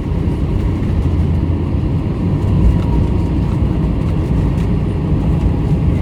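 Cabin noise inside an Airbus A321 with CFM56 engines: a steady, loud low rumble of engines and airframe around the landing.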